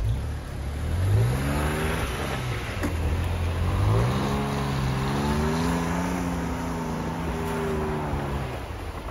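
Toyota Tacoma pickup's engine accelerating over a steady low rumble. It rises in pitch about a second in, drops back near two and a half seconds as a gear change, rises again and holds, then eases off near the end.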